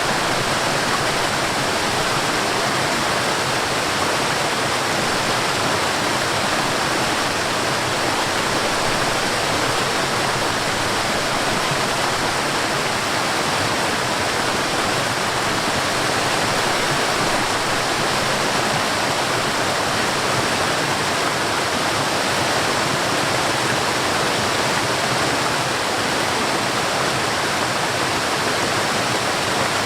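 Water of a mountain stream and waterfall rushing over rocks in a steady, unbroken rush.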